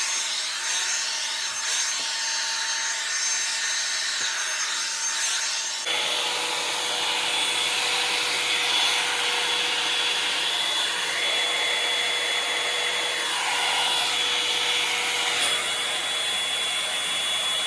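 Landot 4-in-1 hot-air brush hair dryer running steadily while it is worked through hair: a steady rush of air with a thin high whine. The sound changes abruptly about six seconds in.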